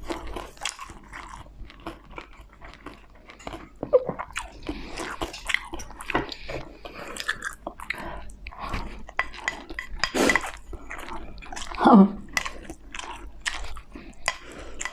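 Close-up chewing and biting of crispy fried dumplings, with irregular crunchy bites and wet mouth sounds.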